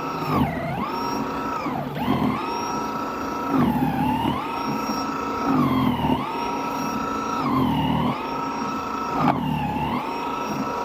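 Snow blower's motor whining as it is pushed into snow. Its pitch sags each time it bites into a load and climbs back as it clears, about every one and a half to two seconds, with a churning rumble at each dip.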